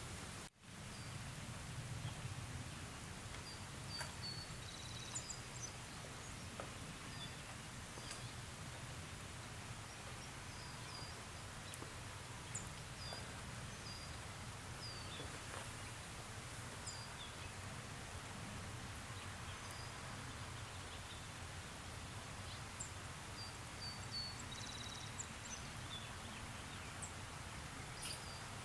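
Outdoor ambience of light rain: a steady soft hiss with a low rumble beneath, and scattered short bird chirps throughout. The sound drops out briefly about half a second in.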